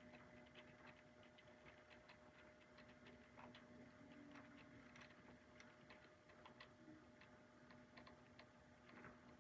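Faint, irregular clicking of model trains running on the layout's track, over a steady faint hum.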